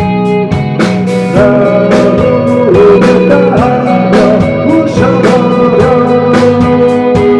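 Rock band playing live and loud: guitars over a steady drum beat, with bending melodic notes from about a second in.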